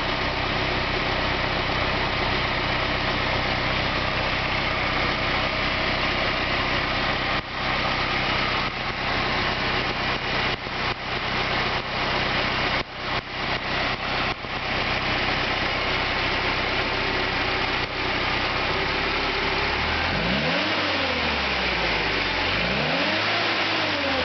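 Komatsu forklift's rebuilt Nissan A12 four-cylinder petrol engine running at a steady idle, then revved up and let fall back twice near the end.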